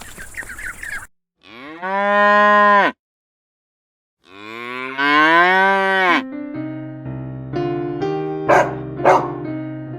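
A cow mooing twice: two long calls about a second and a half each, pitch rising and then falling, with a short silence between. From about six seconds in, piano music takes over.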